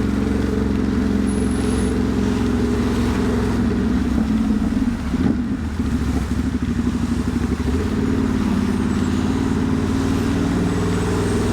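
Ducati Monster's V-twin engine running at a steady cruise, with wind and road noise over it while riding in light rain.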